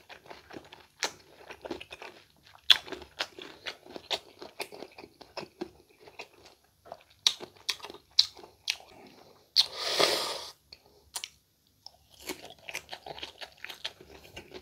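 Close-up chewing of crisp raw green mango slices, with many short sharp crunches throughout. One louder rushing noise lasts about a second near the middle.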